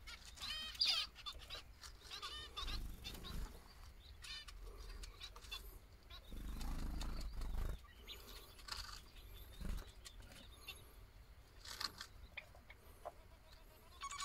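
Small birds chirping: short, repeated calls coming a few at a time, with a low rumble about six and a half seconds in.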